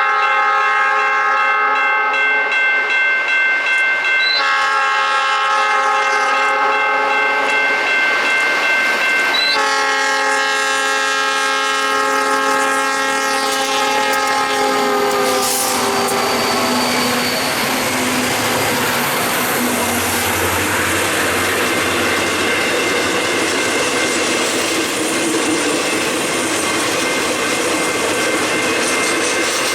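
Diesel freight locomotive's multi-note air horn sounding long blasts as the train approaches: one ending about four seconds in, another of about five seconds, and a third held for about seven seconds whose pitch drops as the locomotive passes. After that comes the steady rumble and clatter of the locomotives and freight cars rolling by on the rails.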